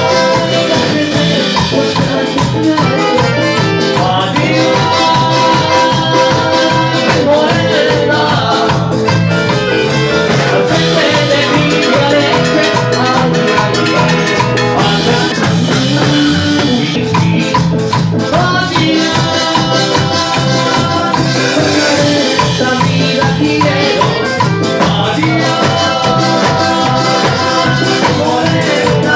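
A Latin dance band playing live in salsa style, with drum kit, maracas and a singing voice over a steady beat.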